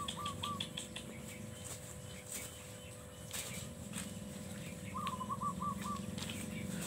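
A bird calling: a quick run of short repeated notes, about seven a second, fading out about half a second in, then a second shorter run about five seconds in.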